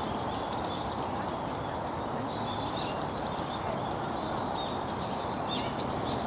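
A small bird chirping in a fast, even series of high arching notes, about four a second, with one stronger note near the end, over steady background noise.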